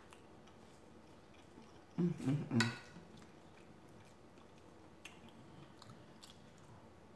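Close-up mouth sounds of a person eating: soft chewing with small wet clicks. About two seconds in there is a short hummed vocal sound ending in a sharp lip-smack.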